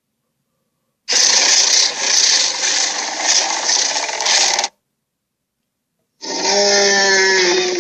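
Giant-ape creature sound effects, two in a row with silence between them. About a second in comes a harsh, rasping roar of about three and a half seconds that pulses in loudness. Near the end a second, pitched roar begins, its tone sinking slowly.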